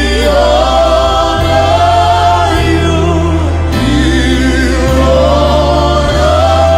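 Gospel worship song: voices singing long held notes with vibrato over sustained low bass notes that change every second or so.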